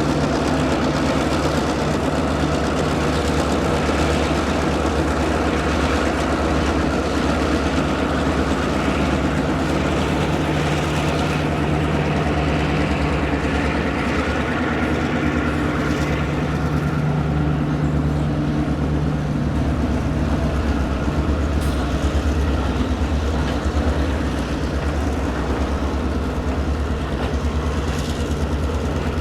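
Diesel locomotive engines running steadily, a low, even rumble.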